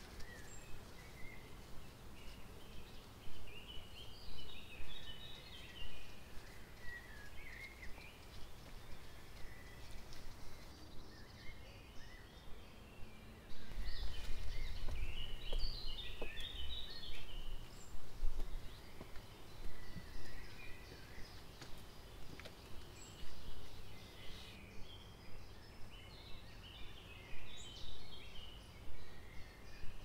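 Small birds chirping and singing in woodland over a steady low background. A louder low rumble swells for a few seconds about halfway through.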